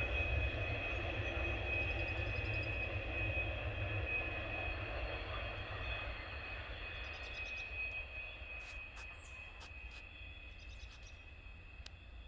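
Norfolk Southern freight train moving away down the line, its low rumble fading steadily, with a steady thin high tone over it.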